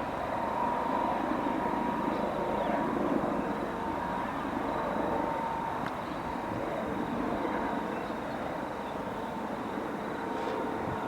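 Airbus Helicopters EC-135 T2+ twin-turbine helicopter in flight: a steady high turbine whine over the rushing rotor noise, growing slowly a little quieter.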